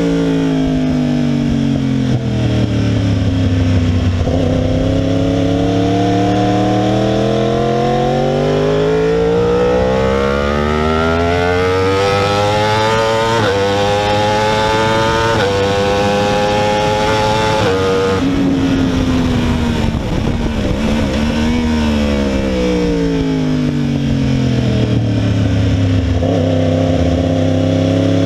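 2016 Yamaha R1's crossplane inline-four with a cat-delete exhaust, heard from on the bike. The engine note falls off the throttle, then revs up through the gears with three quick upshifts about 13, 15 and 18 seconds in. It winds down again as the bike slows for a corner and starts pulling hard near the end.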